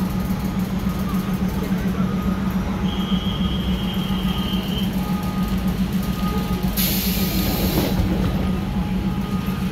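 Stationary train idling at a station stop, a steady low drone. About three seconds in a thin high tone sounds for about two seconds, and about seven seconds in there is a short hiss of released air.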